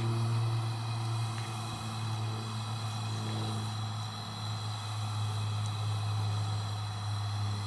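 A steady low mechanical drone, like a motor running without pause, with nothing else standing out above it.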